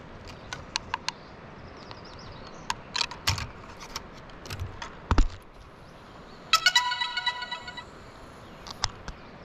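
DJI Mini 3 Pro drone powering on with its electronic start-up chime, a short run of steady tones lasting about a second, near the end. Before it come light clicks and handling knocks and a heavier thump about halfway through.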